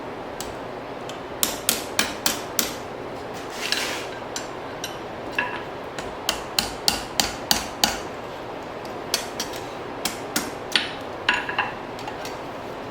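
Blacksmith's hand hammer striking hot steel on an anvil in several short runs of quick blows, over a steady background hiss.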